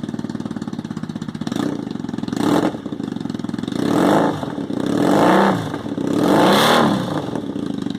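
2007 Triumph Bonneville's air-cooled parallel twin, with a D&D racing exhaust, idling without choke and then revved several times, each rev rising and falling in pitch, before it settles back to idle near the end.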